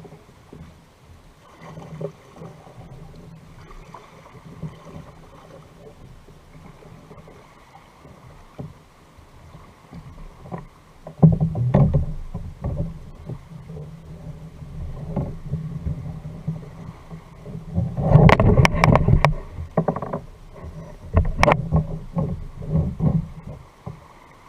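Handling noise on a fishing kayak on the water: irregular knocks and bumps that grow louder and busier from about halfway in, with a quick cluster of sharp clicks about three quarters of the way through.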